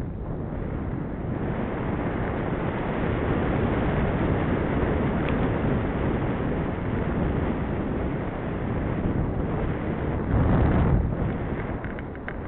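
Wind rushing over the microphone of a camera carried on a moving bicycle: a steady noise that swells briefly about ten seconds in, then eases.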